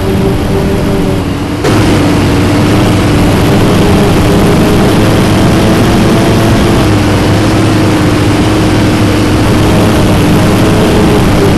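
Scania city bus diesel engine running under way, heard from inside the bus, with a steady drone that gets suddenly louder about two seconds in and dips slightly in pitch partway through.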